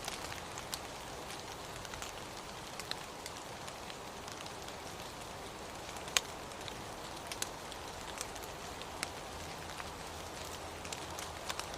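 Steady rain hiss with scattered louder drops ticking, one sharper drop about six seconds in.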